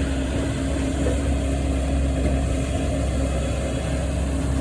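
Engine running steadily: a continuous low drone with a constant hum and no change in speed.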